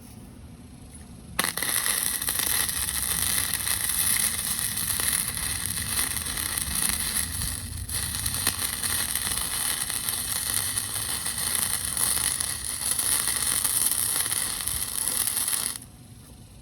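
Gasless flux-core wire welder arc crackling steadily through one long continuous weld, about fourteen seconds. It starts suddenly about a second and a half in, dips for a moment midway, and cuts off sharply near the end when the trigger is released.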